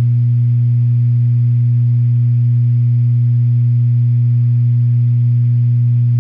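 Peavey 6505+ 120-watt tube amp head humming through its speaker cabinet after being taken off standby: a loud, perfectly steady low hum with a ladder of higher overtones. The owner cannot tell whether this hum is normal for the amp.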